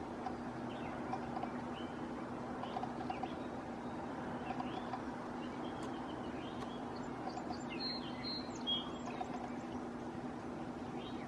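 Scattered short bird chirps and calls over a steady low hum of background noise, the chirps clustering briefly about eight seconds in.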